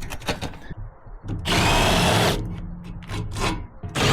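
Cordless drill spinning in two bursts, one of about a second from a second and a half in and another starting near the end, backing out a rusty bolt from a pickup's wooden bed boards. Light clicks and rattles come before the first burst.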